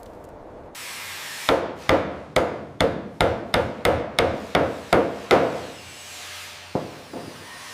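Hand hammering: about eleven quick blows, roughly two and a half a second, then a pause and one more blow near the end.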